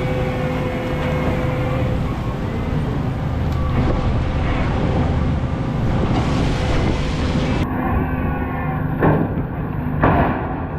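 An engine running steadily, with a low hum that changes abruptly a few times as if the recording is cut, and two short louder rushes of noise near the end.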